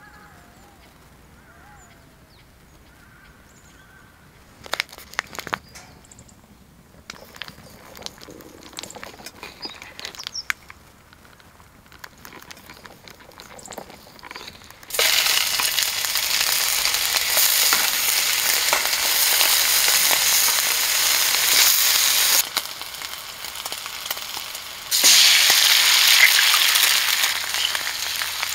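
Scattered knocks of a knife on a wooden cutting board, then bacon sizzling loudly in a small frying pan on a camp stove from about halfway through. The sizzle eases off briefly and then flares up louder again near the end, with eggs frying in the pan alongside the bacon.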